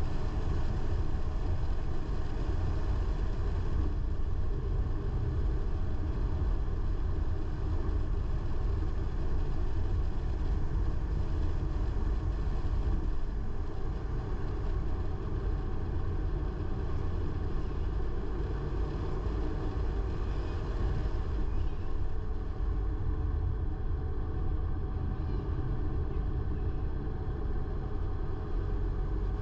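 A car being driven: steady engine and road noise, strongest in the low rumble, holding even throughout.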